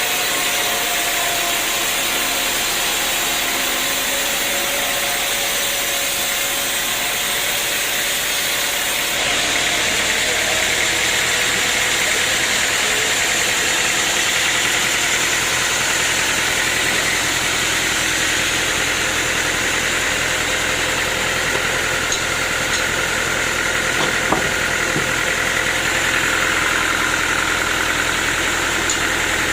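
Sawmill machinery running steadily with a constant mechanical drone. About nine seconds in, the sound shifts and a low hum joins in.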